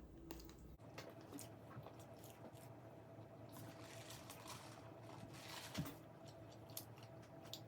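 Faint chewing and crunching of food by a person eating, with scattered small mouth clicks and a soft crunch near the middle.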